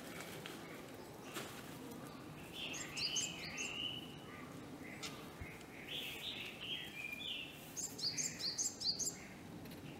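Small birds chirping and singing, with two louder runs of quick high notes, about three seconds in and again near the end, over a low steady background noise.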